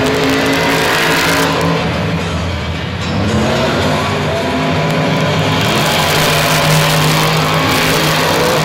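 Monster truck engines running and revving, with music playing over them.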